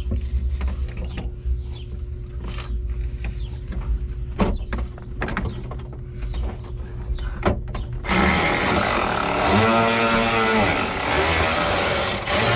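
Light clicks and knocks of parts being handled, then, about eight seconds in, a power drill runs for about four seconds, its pitch rising and then falling as the trigger is worked.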